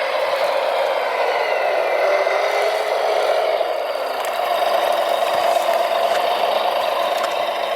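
Electric motor and gearbox of a radio-controlled model vehicle whining steadily, the pitch shifting slightly about four seconds in.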